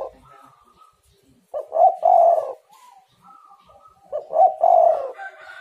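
Spotted dove cooing: two phrases, about two and a half seconds apart, each a couple of short notes running into a longer, louder coo. Fainter, higher bird calls sound in the gaps.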